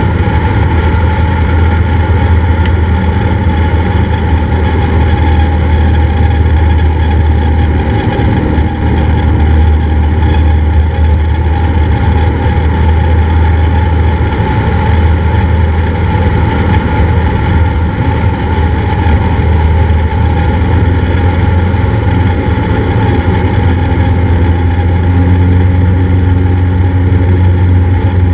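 Cessna 172's piston engine and propeller droning steadily in flight, with a slight shift in tone about 24 seconds in.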